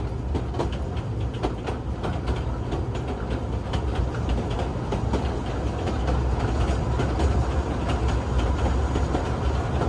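Kurobe Gorge Railway's narrow-gauge train running, heard on board: a steady low rumble with irregular clicking and clacking from the wheels on the rails. It gets a little louder about six seconds in.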